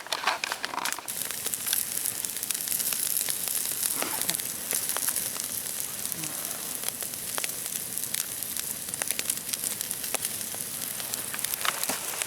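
Wood campfire of birch and aspen deadwood burning, crackling with many small sharp pops over a steady hiss.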